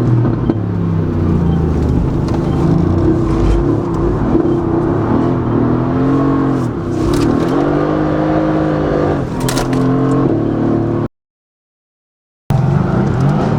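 Mercedes-AMG GT S twin-turbo V8 breathing through an Akrapovic titanium Evolution exhaust, driven hard on track: engine pitch rises and falls as it revs through the gears. The sound cuts out completely for about a second and a half near the end, then the engine returns.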